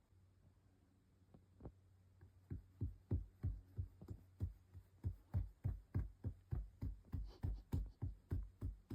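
A steady rhythm of soft, low thumps, about two or three a second, beginning a second or two in and growing louder.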